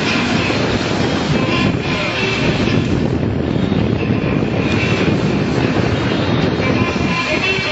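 Police motorcycle engine running steadily during a competition riding run.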